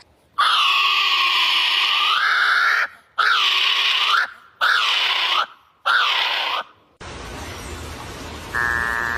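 A bird giving four loud, harsh calls. The first lasts about two seconds and the next three under a second each, and each dips and then rises in pitch. About seven seconds in, the sound cuts to a different recording with a steady low hum and hiss.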